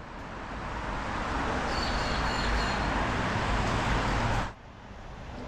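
A car passing with engine rumble and road noise, growing louder over a few seconds and then cutting off abruptly.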